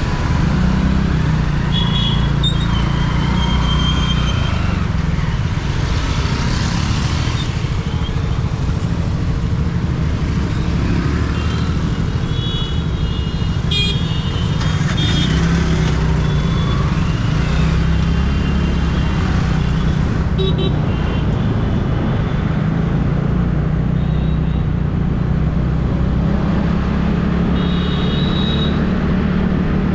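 TVS Ntorq single-cylinder scooter riding through city traffic, a steady low engine and road rumble throughout. Vehicle horns toot briefly several times.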